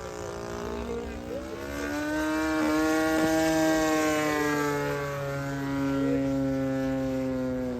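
Engine and propeller of a Seagull Ultimate 20cc radio-controlled model airplane running steadily. Its pitch and loudness rise over the first three seconds, then ease off slowly.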